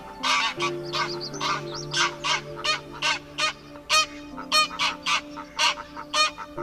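A waterbird calling over and over in short, sharp, loud calls, about three a second, over soft background music with sustained chords.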